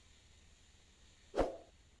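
Near silence, broken about one and a half seconds in by a single short thud.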